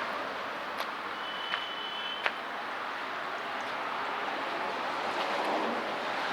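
Town street ambience: a steady hiss of passing traffic, with three short clicks in the first couple of seconds and a brief high-pitched steady tone about a second in.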